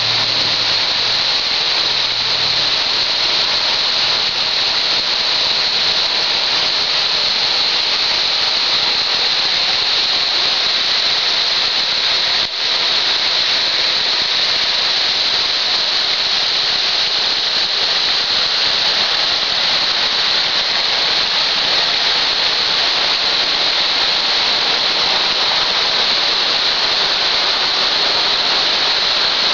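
Waterfall: a steady, dense rush of falling water that dips briefly once, about twelve seconds in.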